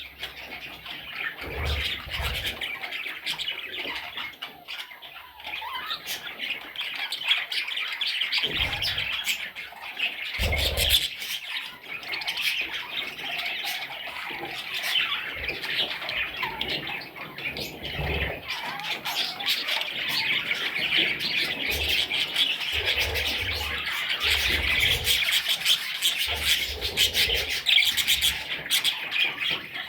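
A flock of young budgerigars chattering and squawking continuously, with many short overlapping chirps and calls, and occasional low thumps.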